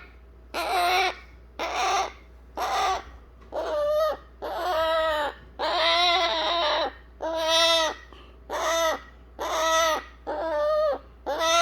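Baby eclectus parrot giving a string of nasal, wailing begging calls, about one a second. It is begging to be held after its hand-feeding, and the calls sound like a human baby crying.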